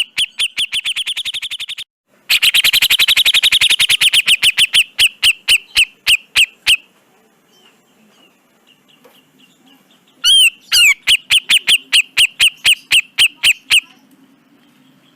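Grey-cheeked bulbul (cucak jenggot) giving loud runs of sharp, rapidly repeated notes, three runs in all. The middle run starts fast and slows. A quiet gap of a few seconds comes before the last run.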